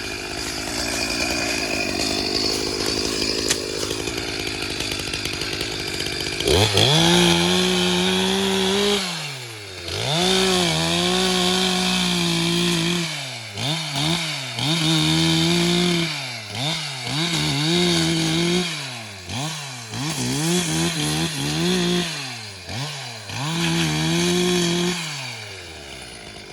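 Two-stroke chainsaw running. About six seconds in it is revved to full throttle, then the throttle is blipped again and again, the engine note falling and climbing back to a high steady whine about eight times.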